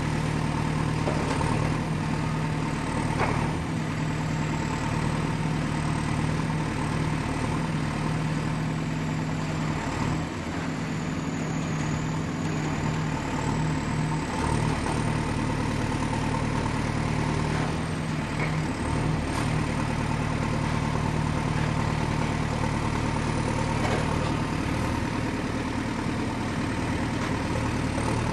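Excavator's diesel engine running steadily, with a thin high whine that drifts slowly up and down in pitch and a few faint knocks.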